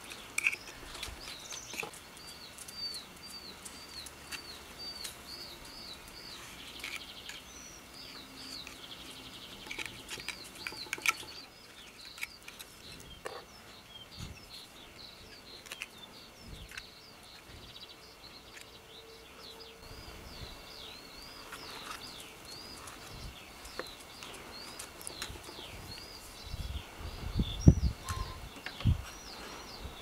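A small bird chirping over and over, a quick run of short high chirps a few per second, with light clicks from small brass lighter parts being handled and a few louder knocks near the end.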